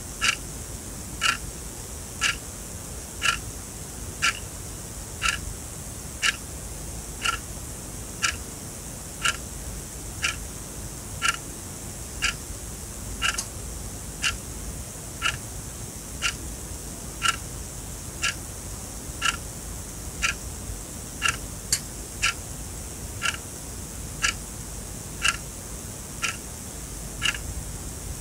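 Sonam quartz alarm clock ticking, one sharp tick each second as the second hand steps.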